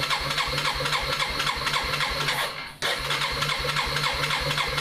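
The electric starter of a 2001 Yamaha Bear Tracker cranks its single-cylinder engine in a cold start with the choke on full, in a steady rapid rhythm of about five to six strokes a second. About three seconds in it stops briefly, then cranks again, and the engine has not yet caught.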